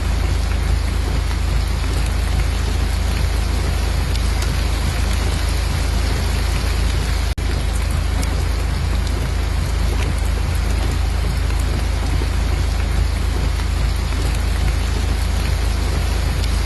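Steady rain, an even unbroken hiss with a deep low rumble underneath, cut by a split-second gap about seven seconds in.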